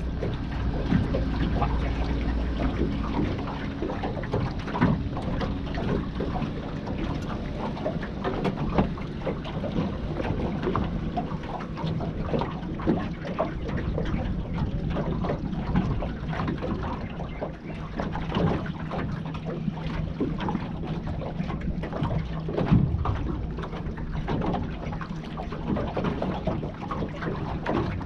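Wind buffeting the microphone, with scattered knocks and rustles from handling close to it and a low steady hum in the background.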